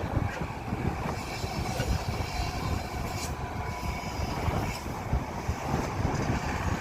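Vehicle on the move over a rough road: a steady low rumble with scattered rattles and knocks.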